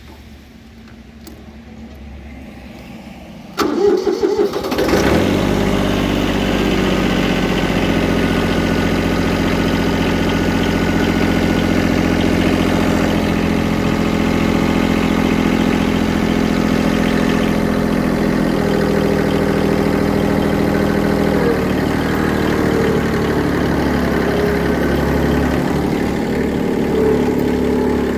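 Kubota B7100HST's compact three-cylinder diesel engine cranked and catching about four seconds in, then idling steadily, with a slight shift in engine pitch a little past the middle.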